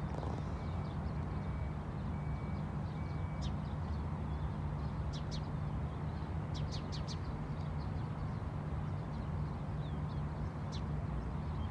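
Birds chirping in short, separate calls, four in quick succession about seven seconds in, over a steady low rumble.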